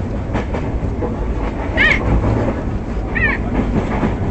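Passenger train running along the track, a steady low rumble with clatter, and two short high chirps about two and three seconds in.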